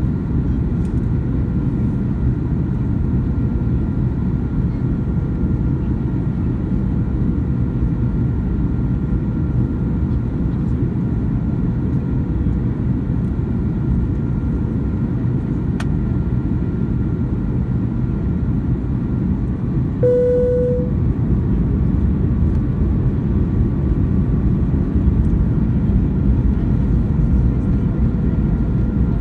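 Boeing 737-800 cabin noise in flight: a steady low rumble of the engines and airflow, with a faint steady whine over it. A click sounds at about sixteen seconds, and a short tone a few seconds later, after which the rumble grows slightly louder.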